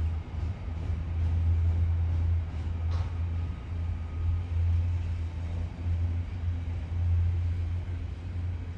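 Loaded container wagons of a Freightliner intermodal freight train rolling past: a steady low rumble of wheels on rail, with a faint click about three seconds in.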